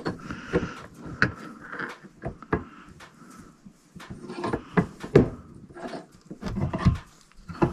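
Irregular knocks, clicks and clunks of parts and tools being handled during shop work. The loudest is a sharp knock about five seconds in.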